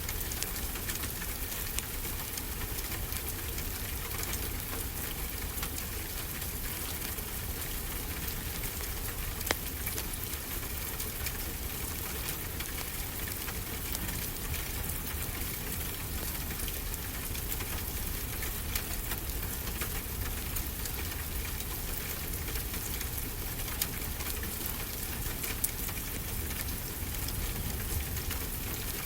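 Steady rain hissing evenly, with a fireplace crackling over it in scattered small pops and a few louder ones.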